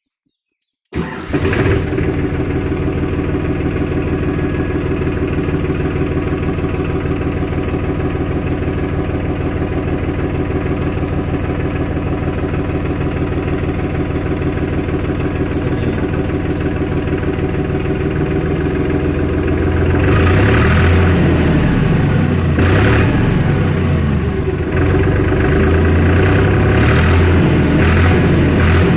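Powertrac Euro 50 tractor's three-cylinder diesel engine. It comes in suddenly about a second in and runs steadily at idle, then from about two-thirds of the way through it is revved up and down several times.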